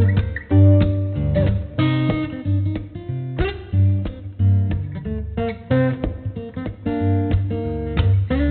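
Background music: acoustic guitar playing quick plucked and strummed notes over a bass line.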